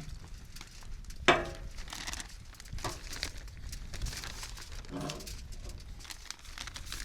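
A dog barks sharply once about a second in, then gives two fainter short calls, over light crinkling.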